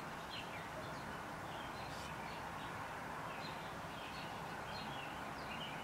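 Steady low room hiss with faint, scattered high bird chirps.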